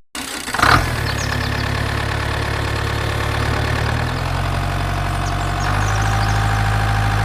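Steady engine idling sound, a low rumble with a short louder burst under a second in, shifting in pitch about four seconds in and again near six seconds.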